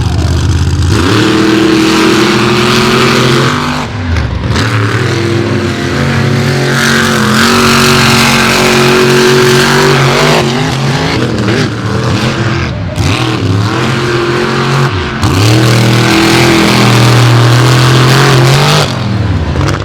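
Monster truck engines running loud at high revs, the pitch dipping and climbing again several times as the throttle is lifted and reopened.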